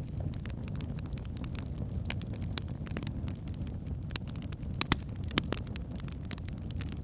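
Logs burning in a fireplace: a steady low roar of flame with irregular crackles and snaps, two sharper pops standing out about five seconds in.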